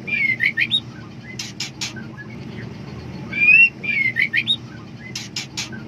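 Female white-rumped shama calling in heat for a male, repeating one phrase twice: a clear whistled note that glides up and down, a few quick short notes, then three harsh rasping notes. A low steady hum runs underneath.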